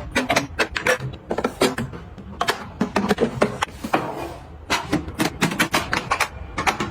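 Quick, irregular clicks and clacks of small hard objects being handled and set down, several taps a second.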